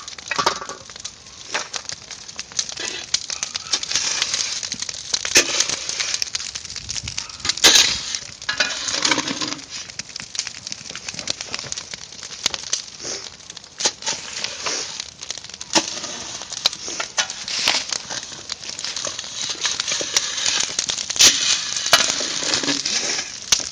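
Irregular crackling, with sharp clicks and clinks, from sangol (natural copper ore) being heated in a cast-iron pot over a wood fire.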